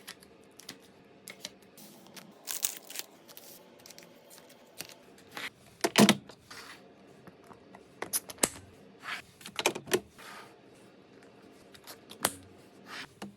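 Irregular clicks, taps and knocks of containers and other items being handled and set down, with short rustles between them. The loudest knock comes about six seconds in.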